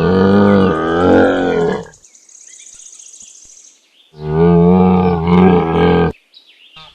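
Camel calling twice, two long, low, rough calls of about two seconds each with a pause between.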